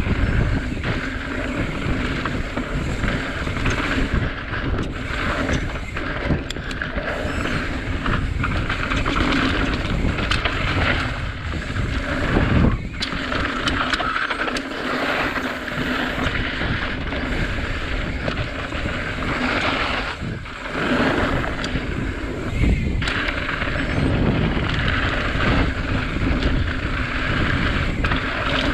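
Santa Cruz Tallboy mountain bike ridden down a trail: wind on the microphone over a steady tyre rumble, with frequent knocks and rattles as the bike runs over rough ground.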